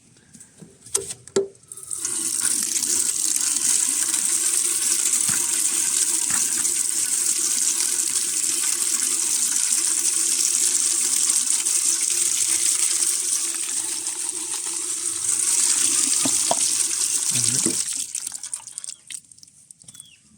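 Water running from a rainwater tote's tap into a bucket of pig feed, a steady gush starting about two seconds in and tapering off near the end. A couple of short knocks come just before the water starts.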